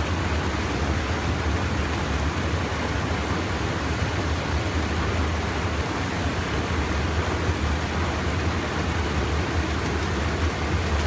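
Steady rushing of a stream's water pouring over a small sabo dam, an even noise with a strong low rumble and no breaks.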